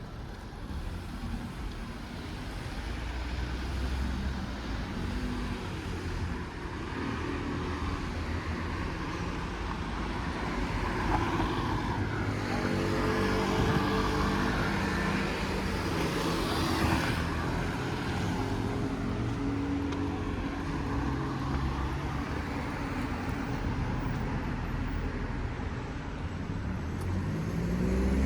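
Street traffic: car engines running past, one passing close and loudest about halfway through, with an engine rising in pitch near the end.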